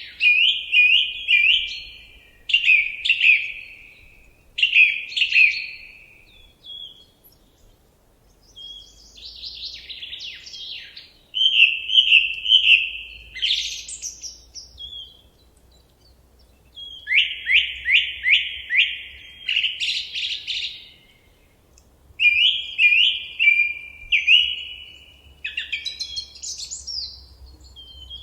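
A songbird singing in short, varied phrases, each a quick run of repeated notes, with pauses of about a second between phrases.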